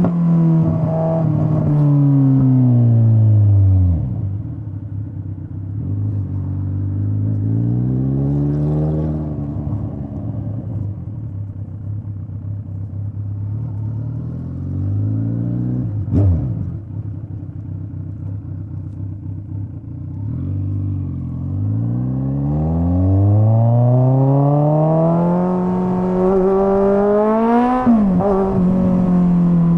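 Straight-piped Kawasaki Z900 inline-four motorcycle exhaust: revs falling as it slows over the first few seconds, a short rev around eight seconds in, then low steady running with one sharp crack about sixteen seconds in. Near the end the revs climb in a long rise and drop off sharply at the top.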